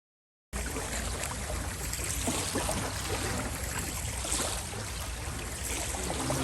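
Moving water: a steady rush with a crackling texture and a low rumble, cutting in about half a second in.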